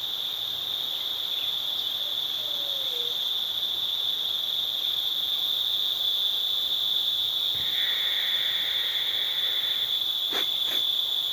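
Steady chorus of insects, a continuous high-pitched trill that does not let up. Two sharp clicks sound near the end.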